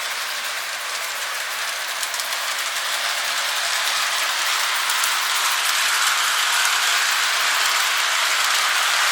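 Lionel O-scale toy train running on its track: a steady whirring rattle of motor and wheels with fine rapid clicking, growing slightly louder as it comes around.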